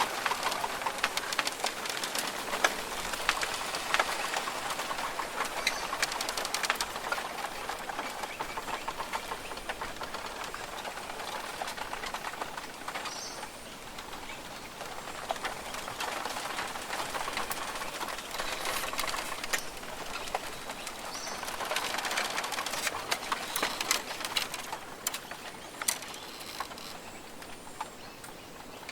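Australian rainforest ambience: birds calling over a dense hiss of fine patter that swells and eases every several seconds.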